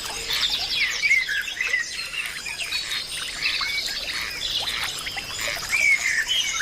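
A dense natural chorus of many birds calling and chirping at once, with quick rising and falling whistled notes, over a steady high-pitched hiss.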